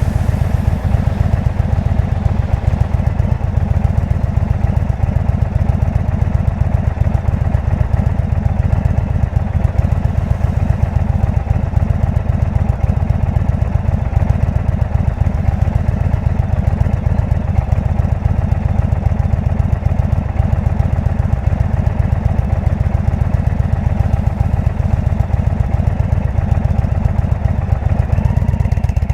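Indian V-twin motorcycle engine with a Jekill & Hyde aftermarket exhaust, running steadily with a deep, even pulse and no revving.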